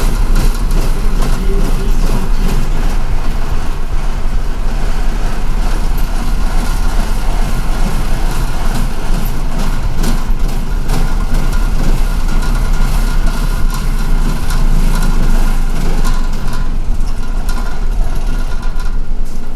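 Inside a city bus: the engine's steady drone and road noise, with frequent small rattles and clicks from the cabin.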